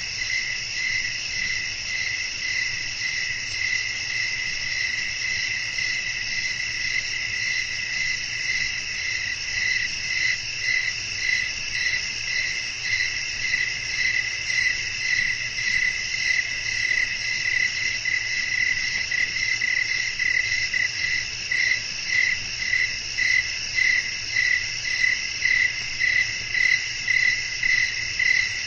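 Night chorus of crickets and other insects chirping without a break, a high shrill layered trill. One pulsing call repeats about twice a second and grows more distinct in the second half.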